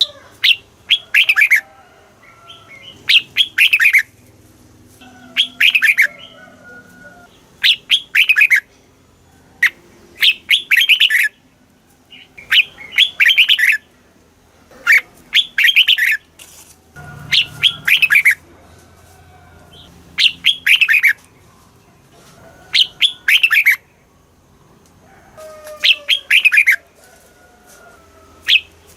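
Red-whiskered bulbul singing: short, quick song phrases, each a run of falling notes, repeated about every two to three seconds.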